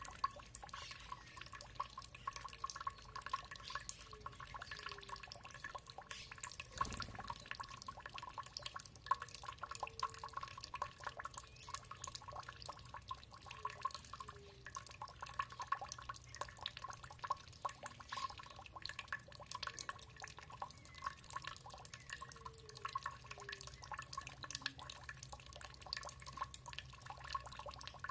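Water dripping and trickling in a steady stream of small drops, with one low thump about a quarter of the way in.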